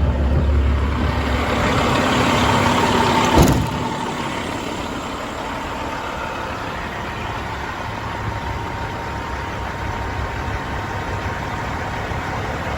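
Caterpillar C15 inline-six diesel in a 2009 Peterbilt truck idling steadily. There is one loud knock about three and a half seconds in.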